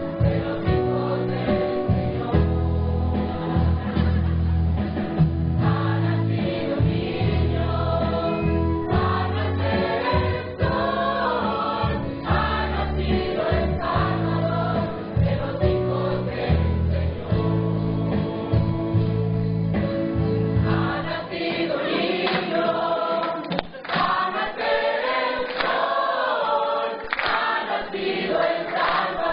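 Choir singing with a low instrumental accompaniment; the low part drops out about two-thirds of the way through and the voices carry on alone.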